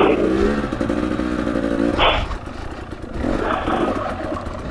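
Dirt bike engine running at low revs, chugging through a rocky creek section, with a brief blip of the throttle about two seconds in.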